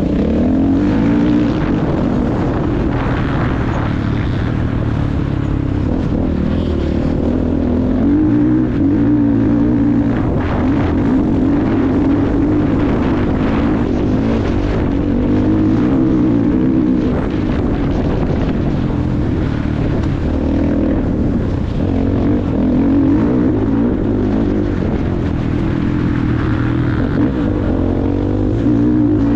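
Motocross bike engine being ridden hard, its pitch rising and falling over and over as the throttle opens and shuts.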